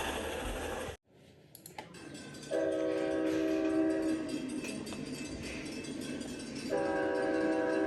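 Rolling train noise cuts off abruptly about a second in. Then an Amtrak P42DC locomotive's multi-chime air horn sounds two blasts over the train's rumble: one of about two seconds, and a second that starts near the end and is still sounding.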